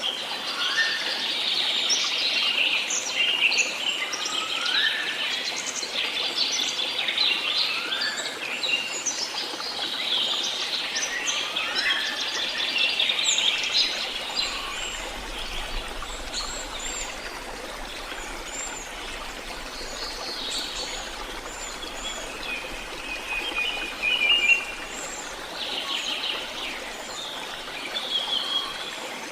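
Several songbirds singing and calling at once: overlapping chirps, trills and short rising whistles over a faint steady hiss, busiest in the first half and thinning out after about halfway.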